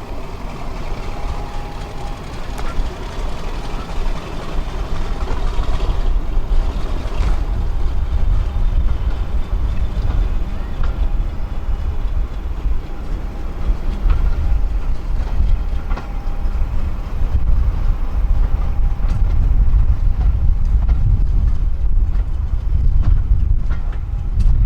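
Passenger train running along the track, heard from on board: a steady low rumble of wheels on rail that grows louder as the train gathers speed, with a faint high whine and a few light clicks.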